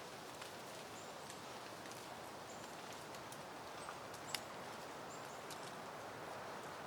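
Soft steady wind rustling through peony plants and garden foliage. Scattered sharp ticks and taps cut through it, one louder about halfway through, along with a few faint, brief high chirps.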